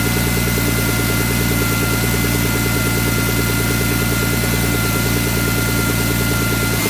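BMW E46 M3's S54 straight-six engine idling steadily, with a fast, even ticking and a steady high whine over the engine note: the strange engine noise the owner is trying to find.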